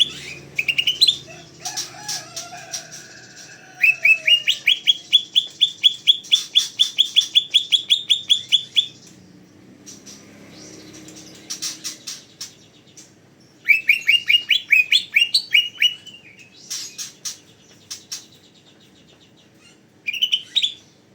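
Cucak ijo (green leafbird) singing in fast trains of repeated rising notes, about four a second, broken by short pauses and sharp chips; its loud, busy song is used as a lure to set other songbirds singing.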